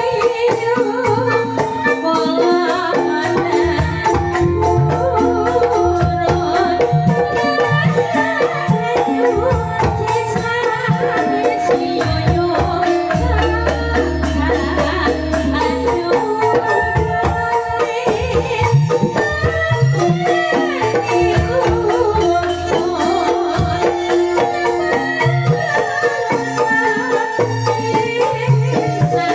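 Calung Banyumasan music: bamboo xylophones playing a dense, rapid struck pattern over drums, with held pitched lines above.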